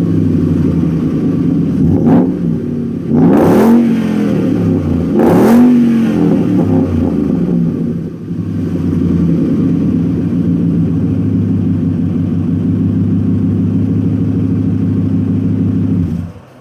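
Ford F-150's 5.0-litre V8 idling through a Roush aftermarket exhaust, blipped three times, a short rev and then two bigger ones, each rising and falling back to idle, then settling into a steady idle before the sound cuts off near the end.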